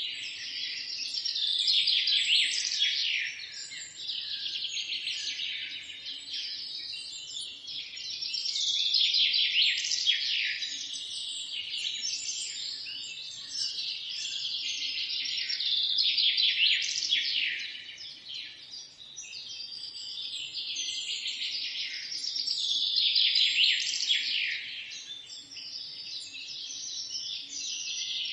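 Dense chorus of many songbirds chirping and trilling at once, swelling louder and easing off every several seconds.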